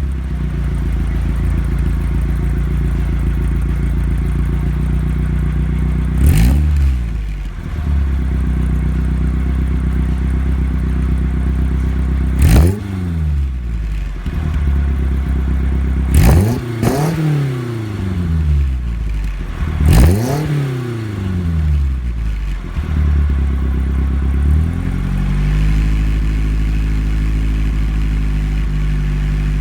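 BMW 2002's four-cylinder engine idling steadily through its exhaust, revved in short throttle blips about five times, each one rising sharply and falling back down to idle.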